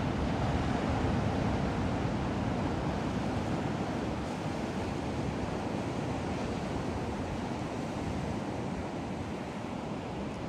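Ocean surf breaking in a steady wash, with wind rumbling on the microphone.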